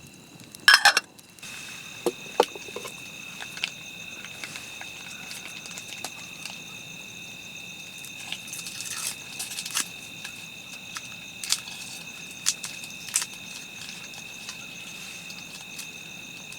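Wood campfire crackling with scattered pops, over a steady high chorus of night insects such as crickets. A single louder knock comes about a second in.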